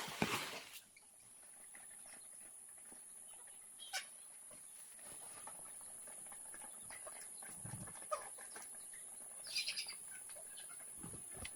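Faint farmyard ambience: chickens clucking now and then over a steady high hiss, with a few light knocks.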